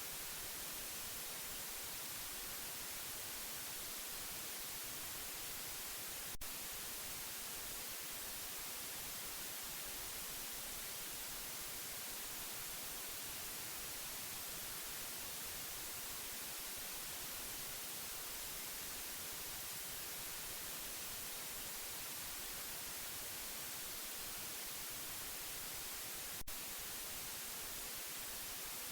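Steady white noise, an even hiss brightest in the highs, with a faint click about six seconds in and another near the end.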